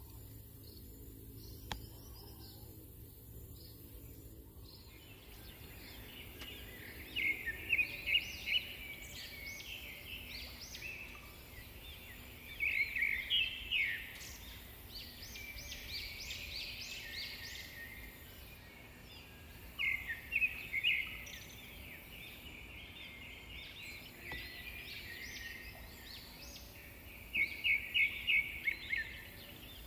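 Bird calling in four short bouts of quick, high repeated chirps, with quiet background noise between the bouts.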